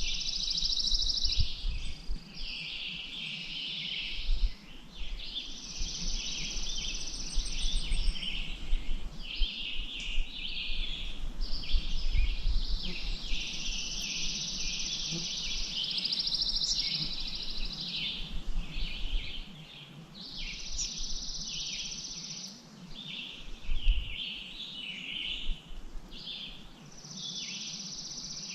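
Songbirds singing almost without pause: overlapping bursts of rapid trills and chatter, each a second or two long. Underneath is a low rumble with a few thumps.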